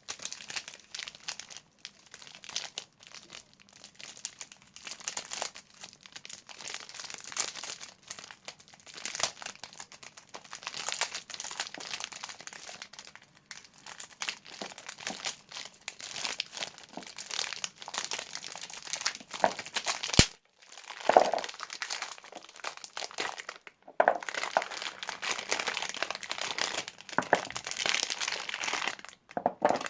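Soap bar wrappers crinkling and crackling as they are unwrapped and handled, in a dense, irregular run of crackles. It pauses briefly twice, with a sharp click about twenty seconds in.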